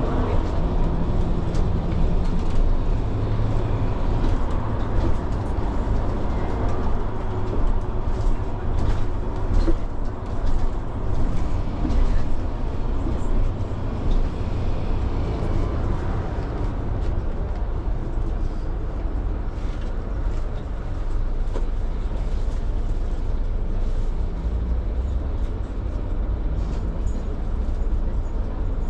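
Steady low rumble of a running vehicle, with scattered short clicks and rattles about a third of the way in.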